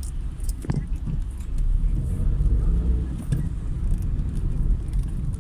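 Car driving along a road: a steady low rumble of engine and road noise that swells a little mid-way, with a few short clicks and a brief squeak sliding down in pitch near the start.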